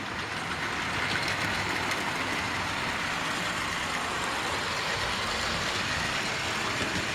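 00 gauge model trains running round the layout: a steady rumble of wheels on rail joints with the hum of small electric motors.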